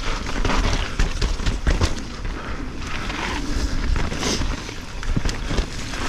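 Mountain bike riding fast down a wet, rooty trail: tyres rolling over dirt and roots with frequent sharp knocks and rattles from the bike, over a steady rumble of wind noise on a POV action camera.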